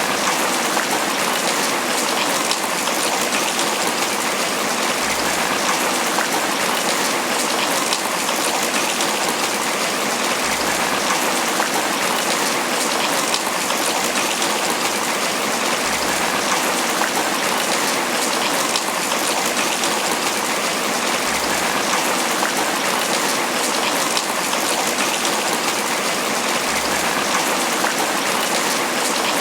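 Tropical rain falling steadily on banana leaves, a dense, even patter of drops.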